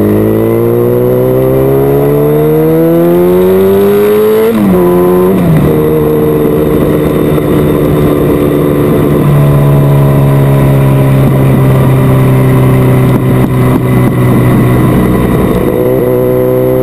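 Motocross bike engine revving hard, its pitch climbing for about four seconds, then dropping twice in quick succession as it shifts up, then holding a steady high rev.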